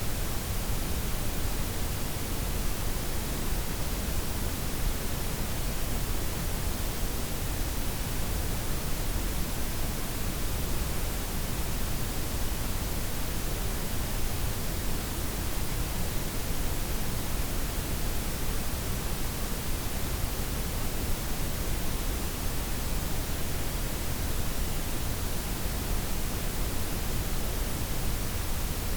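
Steady synthetic noise: white, pink and brown noise layered together, an even hiss, fuller at the low end, with the highs softened. It does not change.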